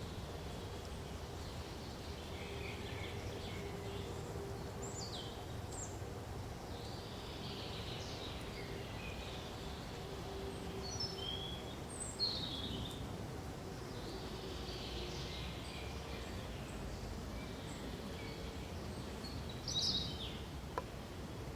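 Scattered birdsong: many short high chirps and quick sweeping calls from several birds, over a steady low background hiss. Two calls stand out louder, about halfway through and near the end.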